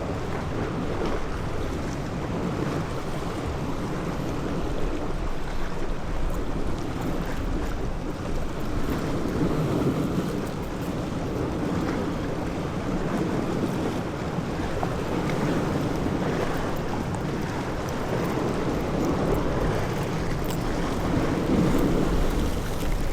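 Steady wind buffeting the microphone over the wash of sea water around a small boat, swelling and easing slightly.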